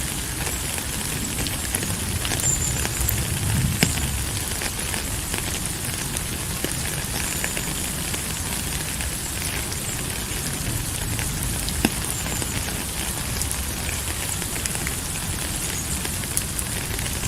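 Steady rain falling: an even hiss dotted with many sharp drop ticks, over a low rumble.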